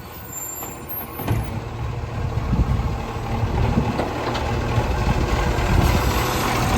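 Heavy garbage truck's engine running, growing gradually louder, with a few brief knocks.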